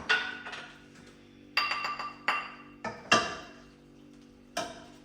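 A metal utensil clinking against dishware, about five separate ringing strikes at uneven intervals.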